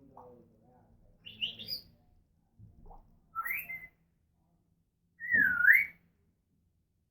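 African grey parrot whistling: three separate calls, a short high chirp, then a rising whistle, then the loudest, a swooping whistle that dips down and rises again near the end.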